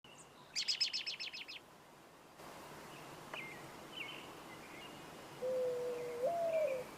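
Birds calling outdoors: a quick high trill of about nine notes in the first second and a half, then faint whistled calls over a steady background hiss. A sustained mid-pitched tone that bends up and back down comes in near the end, the opening of background music.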